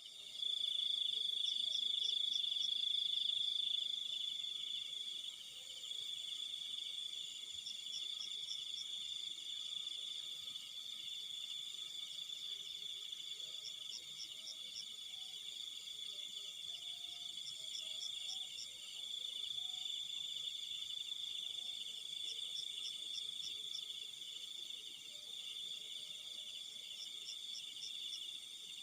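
Night insect chorus: a steady, high-pitched cricket trill, with short bursts of rapid chirps from another insect repeating every few seconds.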